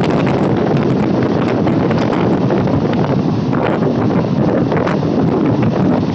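Steady rushing wind on the microphone over the running noise of a moving electric multiple-unit local train: a low rumble with irregular clicks from the wheels on the track.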